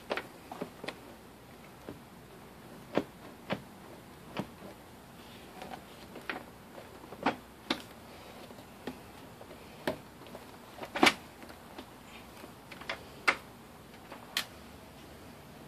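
Irregular clicks and knocks, roughly one a second, from a plastic headlamp assembly and a screwdriver being handled around the headlight opening; the loudest knock comes about eleven seconds in.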